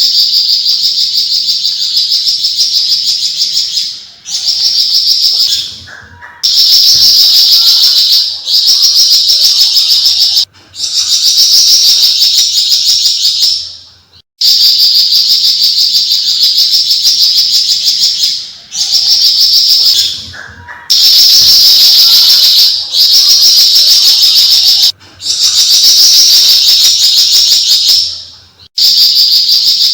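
Javan fulvetta (flamboyan, Alcippe pyrrhoptera) singing its fast chattering song, the 'besetan', in loud phrases a few seconds long with short breaks between them.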